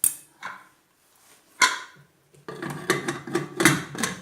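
Metal cookware and utensils clinking and clattering: a few separate knocks, then a busier run of clatter in the last couple of seconds.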